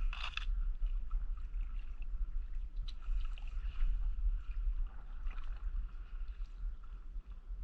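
Kayak paddle strokes in the water: a splash at the start and fainter strokes later, over a steady low rumble.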